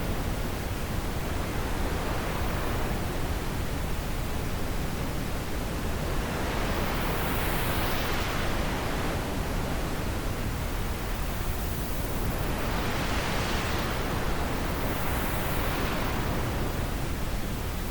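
Wind blowing steadily with a deep rumble underneath, its hiss rising and falling in gusts every few seconds.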